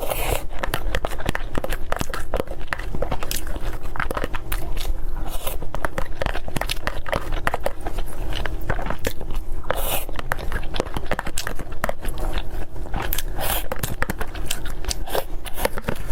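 A person chewing and biting food close to the microphone: continuous wet chewing with many small, irregular crunchy clicks.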